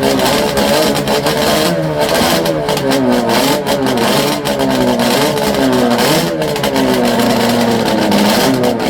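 Yamaha two-stroke racing motorcycle engine revving, its pitch rising and falling again and again as the throttle is worked.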